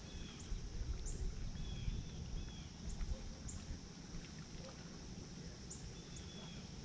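Wake from a passing boat lapping against a kayak, heard as a low, uneven rumble of water. Birds chirp a few times in the background.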